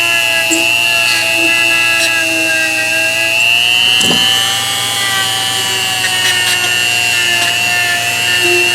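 A small power tool's motor running steadily with a high whine, its pitch sagging and recovering slightly as it is worked, and a brief knock about four seconds in.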